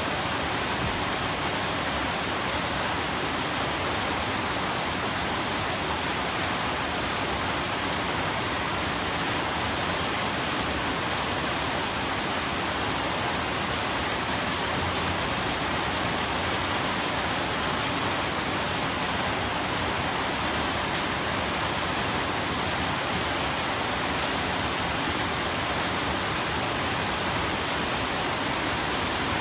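Steady, even rain with no single drops or thunder standing out.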